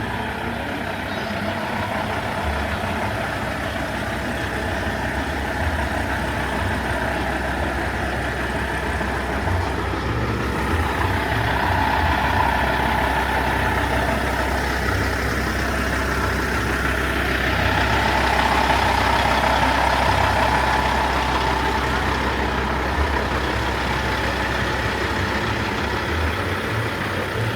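Heavy truck diesel engine running at idle, a steady low rumble, swelling a little in the middle and again about two-thirds of the way through.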